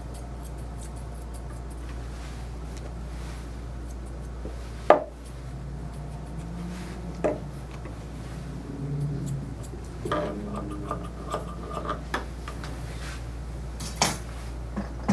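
Metal grooming tools clinking and being set down on a hard surface in a few sharp clacks, the loudest about five seconds in, over a steady low hum.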